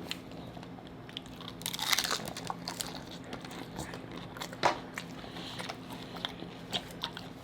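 Close-up crunching as a hard Doritos Locos taco shell is bitten and chewed, in scattered crackles with a dense burst about two seconds in and a sharp crack near the middle.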